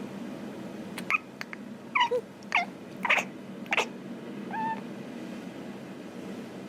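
A cat chirping at birds: a run of five short, sharp chirps over about three seconds, then a softer, drawn-out call. A steady low hum runs underneath.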